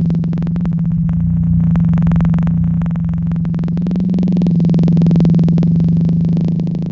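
Electronic noise-drone music from modular synthesizers: a steady low hum-like tone held under a dense, rapidly stuttering buzz of glitchy noise. Near the end the texture changes and the tone begins to waver.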